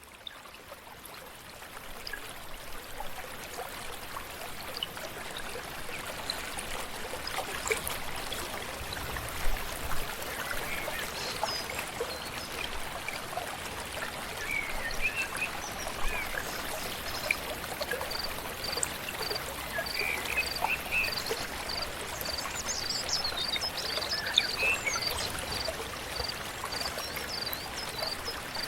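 A flowing stream rushing steadily, fading in at the start, with birds calling over it. From about halfway, one high, short note repeats evenly, roughly once a second.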